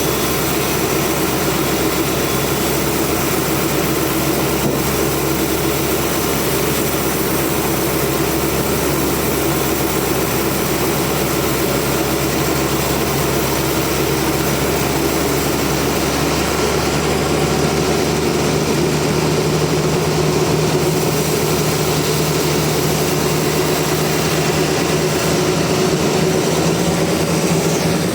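Sawmill machinery running steadily, a loud continuous engine-and-saw drone with a few held tones; about two-thirds of the way through the lowest hum drops out and the pitch balance shifts, as if the load on the saw changes.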